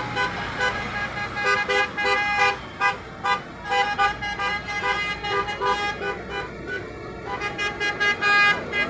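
Tractor horns tooting in many short, repeated blasts over a low engine rumble.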